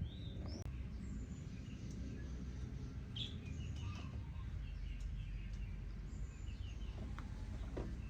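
Small birds chirping and whistling now and then over a steady low background rumble, with a few faint clicks.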